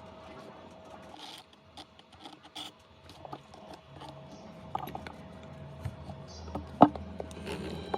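Light clicks, taps and scrapes of small tools and parts being handled during a phone screen repair, with one sharp click near the end. A faint steady hum runs underneath.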